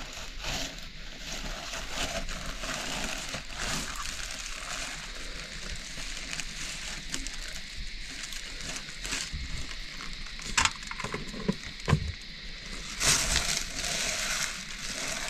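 Kitchen cooking sounds: a steady hiss with scattered utensil knocks and clicks, the loudest clatter about thirteen seconds in.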